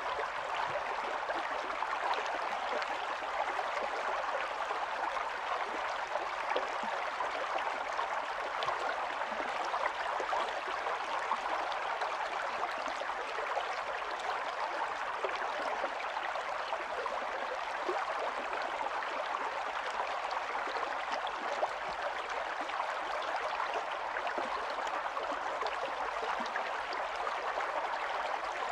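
Running water of a small stream flowing and babbling steadily, a dense even rush with fine splashing detail.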